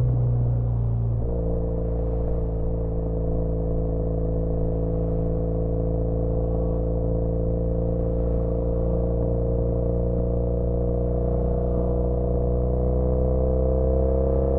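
2013 Triumph Bonneville T100's 865 cc air-cooled parallel twin running through British Customs Sleeper Pro exhausts while riding. The note breaks briefly about a second in, then holds steady and slowly rises in pitch as the bike gathers speed.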